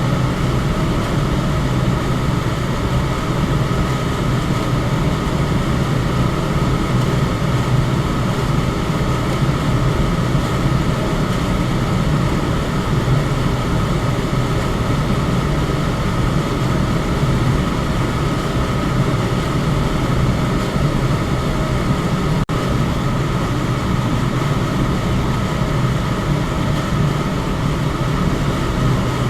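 Electric fan running steadily, a constant whoosh of moving air with a low hum and a faint steady tone above it. There is one very brief dip in the sound about three-quarters of the way through.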